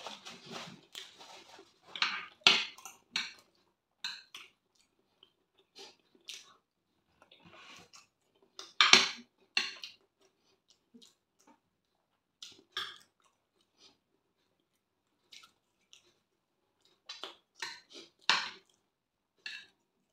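Close-miked eating of soft rice and fried plantain: irregular wet chewing and lip smacks, with a metal fork clicking and scraping against a glass baking dish. A paper napkin rustles briefly at the start.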